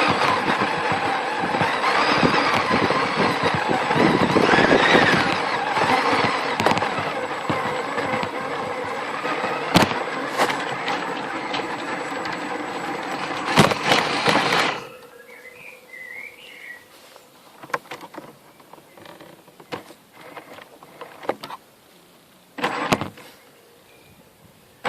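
Tamiya CC01 RC truck's electric motor and gearbox whining, the pitch rising and falling with the throttle, with a few sharp knocks as it clambers over obstacles. About fifteen seconds in the whine stops, leaving quiet with faint chirps and an occasional knock.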